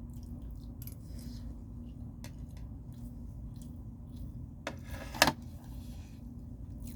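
Utensils and dishes clinking: light scattered clicks, then two sharper clinks about five seconds in, the second the loudest. A low steady hum runs beneath.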